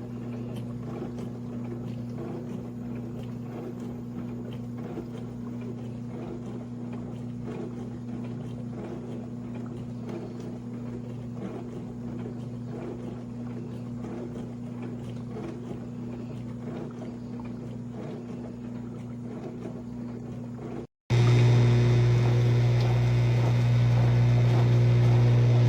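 COMFEE portable countertop dishwasher running: a steady motor hum with water spraying inside. About 21 seconds in the sound cuts out briefly and returns as a louder, deeper hum.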